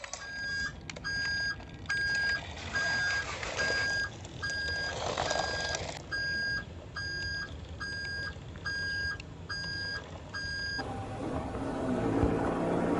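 Vehicle reversing alarm beeping at an even pace, about three beeps every two seconds, with a low steady vehicle rumble underneath; the beeping stops near the end.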